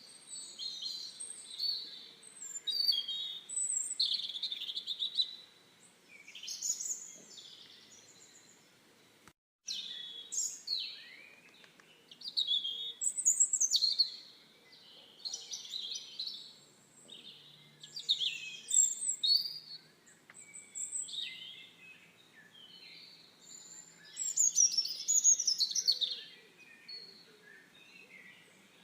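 Songbirds chirping and singing in short, quick phrases, one after another. The sound cuts out for a moment about nine seconds in.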